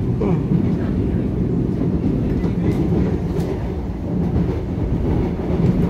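Running noise of an electric multiple-unit commuter train heard from on board while moving at speed: a steady low rumble of wheels on the rails.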